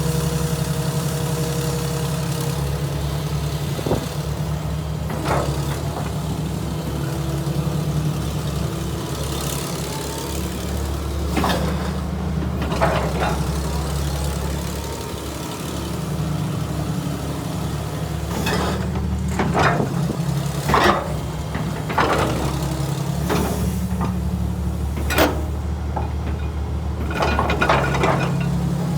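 Diesel engine of a JCB JS200LC tracked excavator running steadily, with short hisses and clanks at irregular intervals, several of them close together in the second half.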